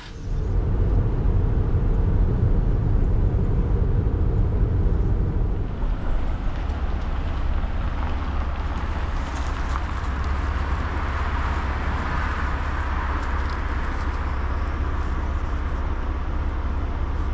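Car driving along a road: a steady rumble of engine and tyre noise that starts abruptly and goes on without a break, shifting a little about five seconds in.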